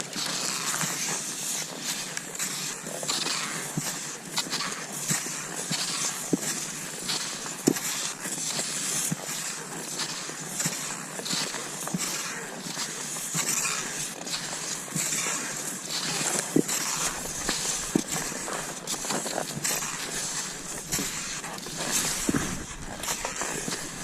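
Cross-country skis swishing and crunching over snow as the skier strides along, with frequent sharp clicks and knocks from the skis and poles.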